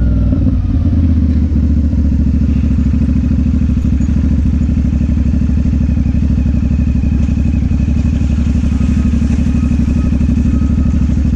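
Motorcycle engine running steadily at low revs, with an even beat throughout.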